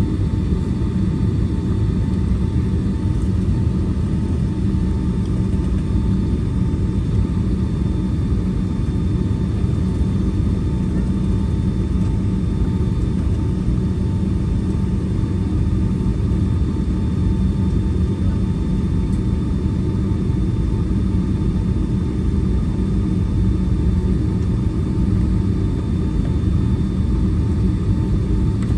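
Steady low cabin rumble of a Boeing 757-300 taxiing after landing, its engines at idle, with faint steady whine tones above the rumble.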